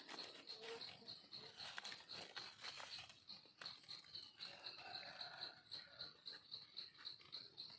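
Near silence: a faint high-pitched chirp pulsing steadily about four times a second, with light rustling and small clicks.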